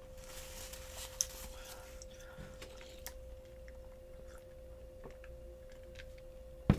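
Close-miked chewing of fried chicken: soft wet mouth sounds and small clicks over a faint steady hum, with one sharp knock near the end.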